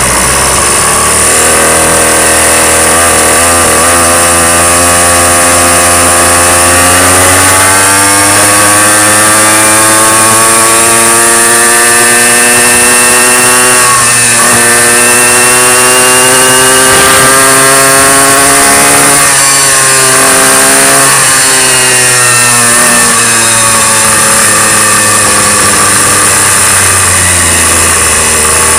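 Motorcycle engine running under way, loud, its pitch climbing slowly as it speeds up, dipping briefly about halfway through, rising again and then falling away near the end as it slows.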